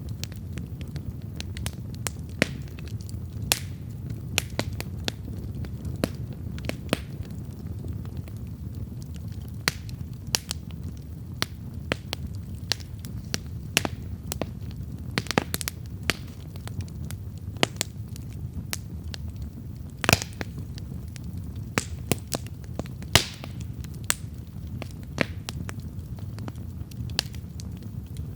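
Wood campfire burning, a steady low rumble of flame under irregular sharp crackles and pops, with two louder pops about twenty and twenty-three seconds in.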